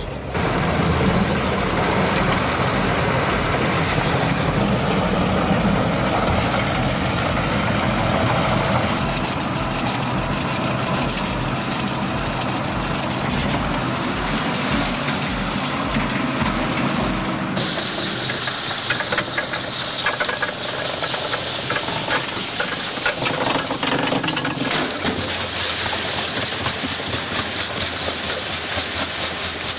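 Heavy industrial machine running steadily with a low rumbling engine, plausibly the Albach Diamond 2000 wood chipper at work. A little over halfway through, the sound changes abruptly to a harsher, hissing grinding with less low rumble.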